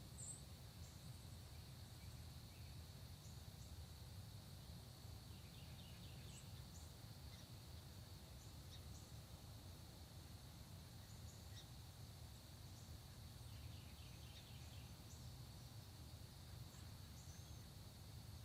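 Faint early-morning countryside ambience: a steady, unbroken insect drone, with scattered faint, short bird chirps and a low background rumble.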